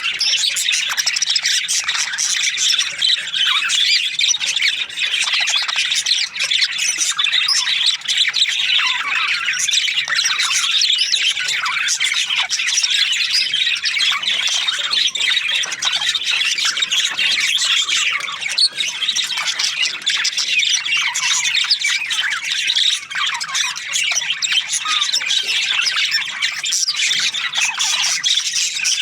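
A colony of budgerigars chirping and chattering without pause, many birds calling over one another.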